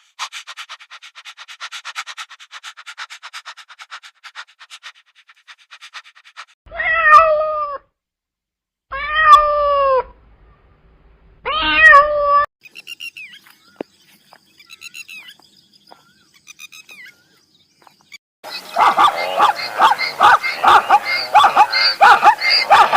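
Domestic cat meowing three times, each meow about a second long and bending in pitch. Before the meows there are several seconds of fast, even ticking, and a dense, busy run of calls fills the last few seconds.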